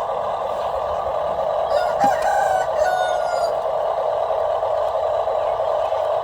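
A rooster crows once, about two seconds in, a call lasting roughly a second and a half. Beneath it runs a steady mechanical whir.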